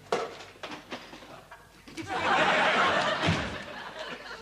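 Studio audience laughing, swelling about two seconds in and dying away near the end, after a few sharp knocks in the first second.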